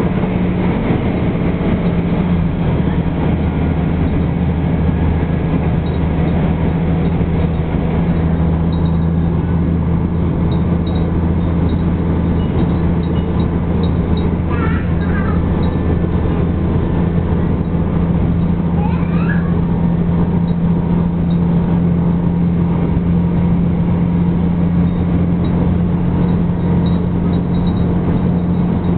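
Asa Seaside Railway diesel railcar running at a steady speed, heard from inside the passenger cabin: a steady low engine drone under the running noise of the car.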